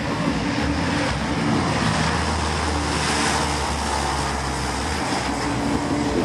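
Lockheed C-130 Hercules turboprop engines and propellers running, a steady loud drone.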